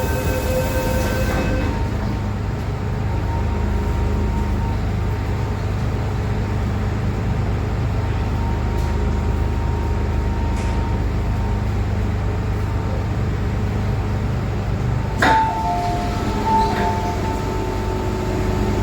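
MTR M-Train electric multiple unit running, heard inside the car: a steady low rumble of wheels on track with faint steady motor tones. A sharp clank comes about fifteen seconds in.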